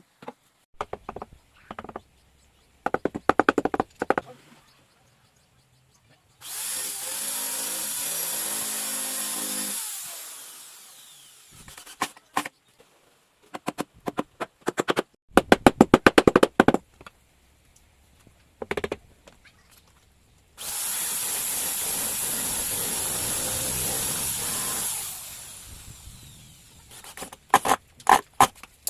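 Electric drill running in two steady bursts of about four seconds each, winding down after each. Between the bursts come scattered knocks and a quick run of sharp knocks, from wooden boards being worked by hand.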